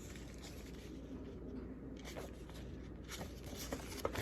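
Faint rustling and a few light ticks of a paper picture book being handled, the pages shifting under the reader's hands, over quiet room tone.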